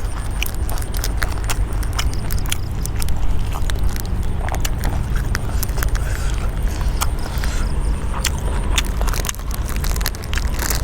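Someone eating: irregular crunchy chewing and clicks, as of raw vegetables and food being bitten and chewed, over a steady low rumble.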